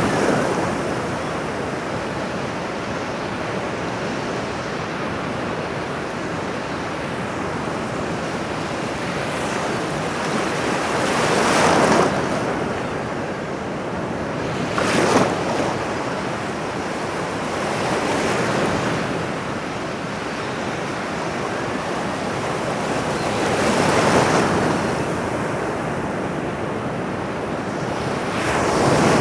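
Ocean waves breaking on a shore, one swell of surf about every six seconds over a steady wash, with a sharper splash about halfway through.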